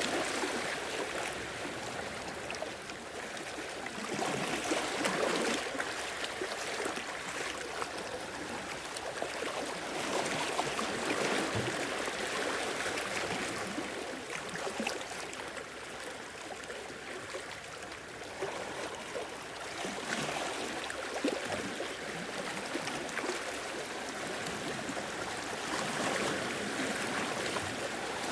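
Sea waves washing and lapping over a shore, a continuous wash that swells and ebbs every few seconds.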